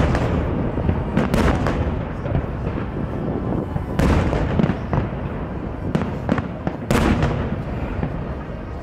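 Aerial fireworks shells bursting overhead in a salute display: several sharp booms a second or two apart, with rumbling and crackle between them.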